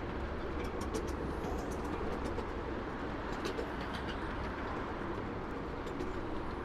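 Miniature ride-on railway train rolling along its track: a steady rumble of the wheels on the rails, with scattered light clicks.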